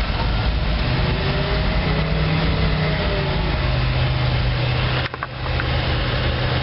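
GMC 366 gas V8 of a school bus running shortly after a cold start, its speed wandering a little, with a brief dip in the sound about five seconds in. It is running on the choke, not quite right; the owner reports it won't stay running with the choke pushed in.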